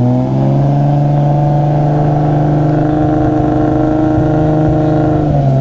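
Car engine held at a raised, steady rev for about five seconds, its pitch climbing at the start and falling back near the end.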